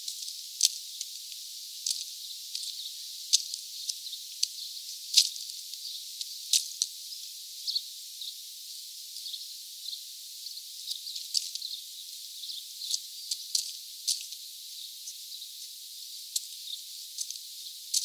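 Small birds at a feeder, giving scattered short, high chirps and clicks at irregular intervals over a steady high hiss.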